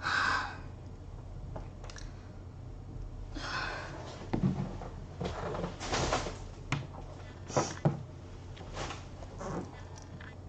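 Scattered short noises with no words: a couple of breathy exhales or sniffs and several soft knocks and clicks of handling, over a steady low hum.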